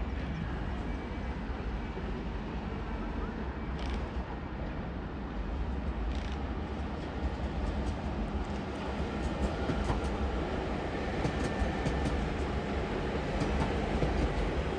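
A train running on the tracks, a steady rumble that grows louder in the second half with a scatter of short clicks and knocks.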